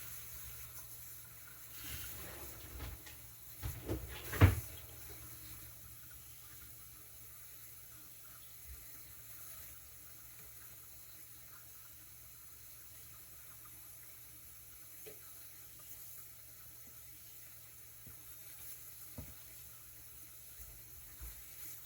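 Faint running tap water rinsing whetstone slurry off a chef knife. A few knocks and clatters come in the first few seconds, the loudest about four and a half seconds in, then a faint steady hiss with a couple of small ticks.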